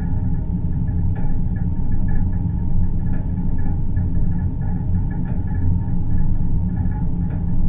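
Synthetic deep-space ambience: a steady, deep rumbling drone with a faint flickering tone higher up and a soft tick about every two seconds.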